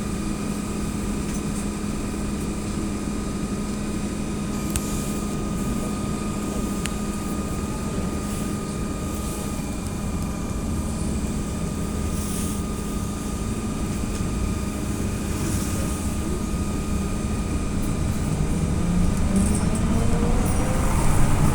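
Cabin noise of an AKSM-321 trolleybus's electric drive: a steady hum with a high whine over a low rumble. About 19 seconds in, a rising whine sets in and the noise grows louder as the trolleybus speeds up.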